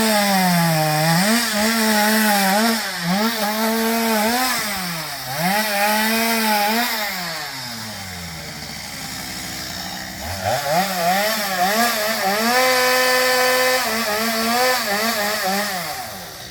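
Two-stroke chainsaw revving up and down as it cuts. Its pitch sinks toward idle about halfway through, then it revs up again and holds high before easing off near the end.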